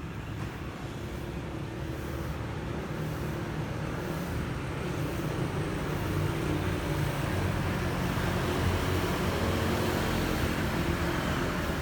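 Yamaha NMAX scooter's single-cylinder engine running with road noise, growing gradually louder.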